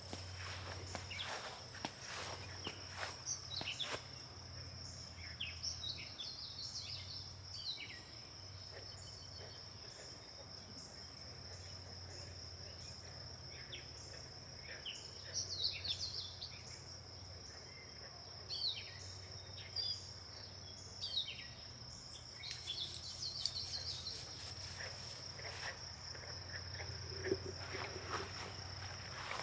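Steady high-pitched insect drone, like crickets, with many short bird chirps scattered through the middle and a low steady hum underneath.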